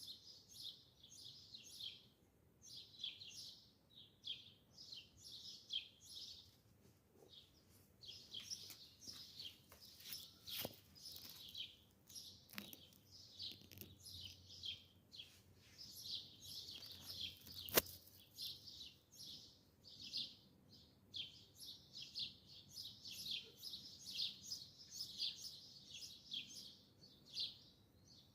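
Small birds chirping continuously, short high chirps several a second. A few sharp clicks sound partway through, the loudest about two-thirds of the way in.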